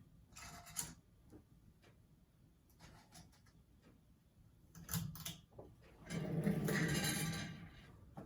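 Light bulbs being unscrewed from a ceiling fan's light kit sockets: short scrapes of glass turning in metal, a sharp click about five seconds in, and a longer, louder scrape near the end.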